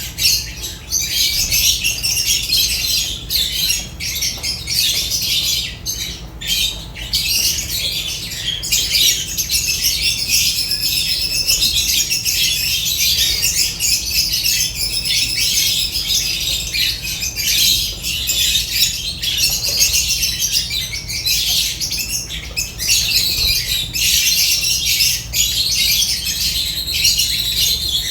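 A flock of lovebirds chirping and squawking, with many shrill calls overlapping continuously, interspersed with short clicks and flutters.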